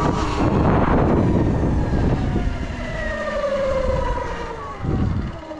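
Sur Ron electric dirt bike riding with heavy wind rush on the helmet camera's microphone, then its motor whine slowly falling in pitch as the bike slows down.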